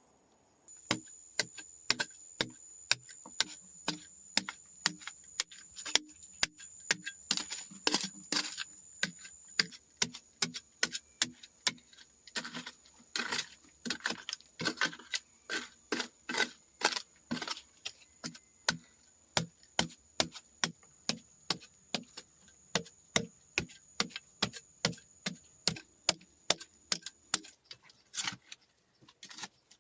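A long run of sharp knocks from hand-tool work, about two a second, over a faint steady high-pitched tone that stops near the end.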